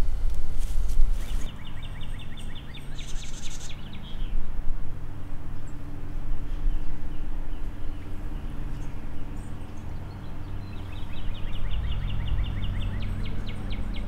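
A songbird sings two rapid trills of quickly repeated notes, one about a second in and one near the end, over the steady hum of a lawn mower engine.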